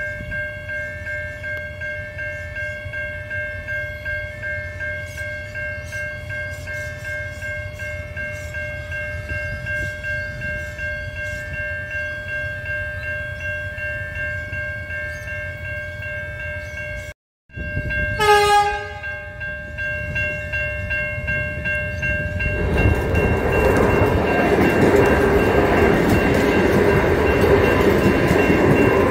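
Level crossing warning bells ring steadily in a pulsing pattern. About 18 seconds in, an Adelaide Metro diesel railcar gives a short horn blast, then passes close by over the crossing with a rising roar of wheels and engine that stays loud to the end.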